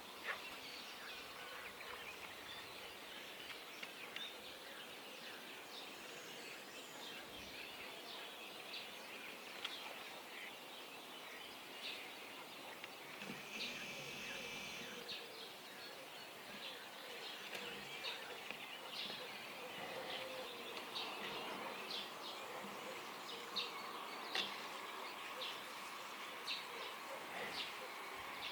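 Dawn chorus of birds: many short high chirps and calls over a faint steady background hiss, with one longer call a little under halfway through. The chirps grow denser and louder in the second half.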